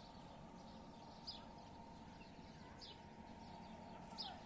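A small bird chirping faintly: three short, high chirps about a second and a half apart, over faint steady background noise.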